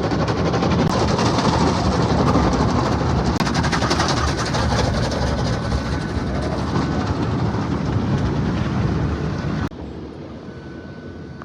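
Automatic car wash running loud, with water spray and machinery clattering against the car, heard from inside the car. About ten seconds in it cuts off abruptly, leaving a low steady hum with a faint thin tone: the wash has stopped mid-cycle.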